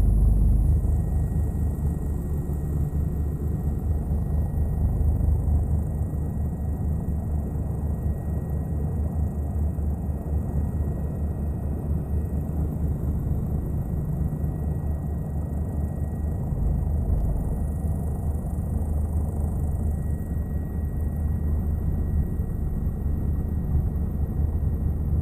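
Helicopter in flight, its engine and rotor making a steady low drone with a fast rotor pulse.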